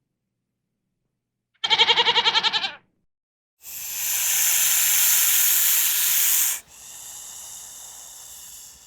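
A goat bleats once, a quavering call about a second long. Then comes a loud hiss lasting about three seconds, dropping suddenly to a fainter hiss.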